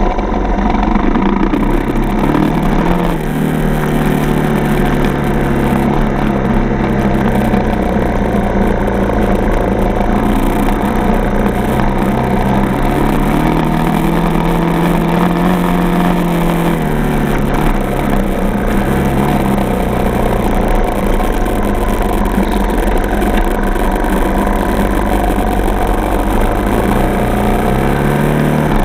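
Dirt bike's single-cylinder four-stroke engine running at low to moderate revs, its pitch rising and easing off with the throttle, and climbing near the end.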